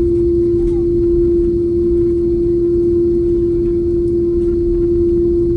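Steady jet airliner cabin noise: a continuous low rumble with a loud, unchanging droning hum.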